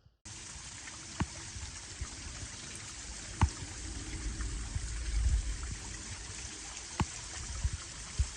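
Water running and trickling in a mountain stream, a steady rush with a few sharp clicks and knocks over it.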